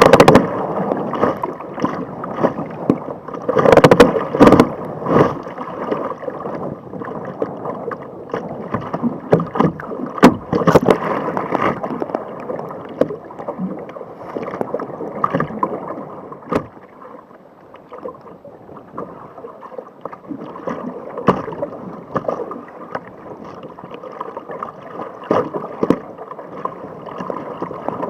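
Water splashing and rushing around a kayak in the surf, with irregular sharp splashes; the loudest come about four seconds in and again around ten to eleven seconds, and it grows calmer in the second half.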